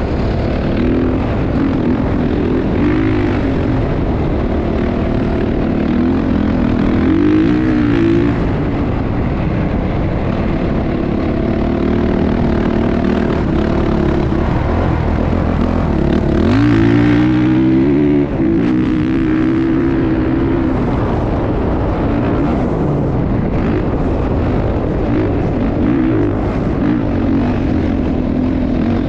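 Motocross bike engines revving, the pitch repeatedly climbing and dropping through the gears, with one strong rise in revs about two-thirds of the way through.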